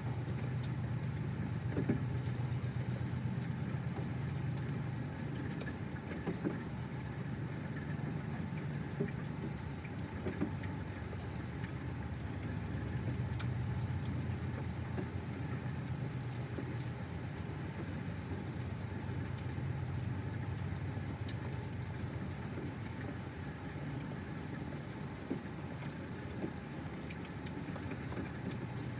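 Steady rain with scattered drops ticking, over a low, even rumble.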